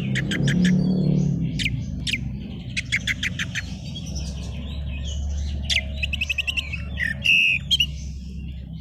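Oriental magpie-robin (kacer) singing: a run of fast, repeated chattering trills broken by sharp whistled notes, over a low steady hum.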